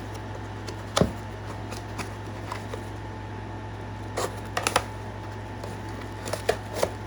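A small packing box being opened and checked by hand: a few sharp clicks and short rustles, about a second in, around four to five seconds in and near the end. Under them runs the steady hum of a room air conditioner.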